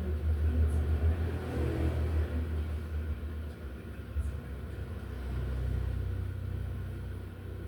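A low rumble that eases about three seconds in and swells again toward the end.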